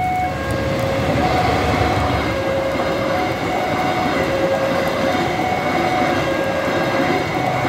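A train passing over a level crossing, heard as a dense, steady rumble of wheels and cars. Over it, the crossing's electronic warning alarm sounds two alternating tones, switching about once a second.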